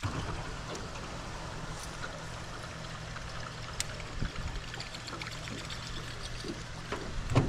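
Water trickling and gurgling at the river surface, over a steady low hum, with a few faint clicks.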